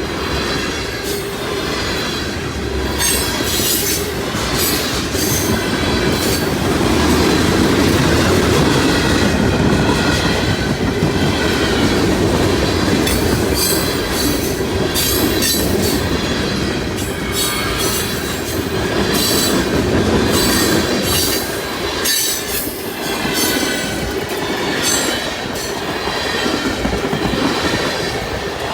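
Freight train cars rolling past with a steady rumble. The wheels clatter over the rail joints and squeal now and then.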